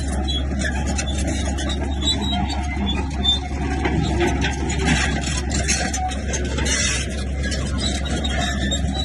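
Komatsu bulldozer running under load, a steady engine drone with its steel tracks squealing and stones scraping as it pushes rock.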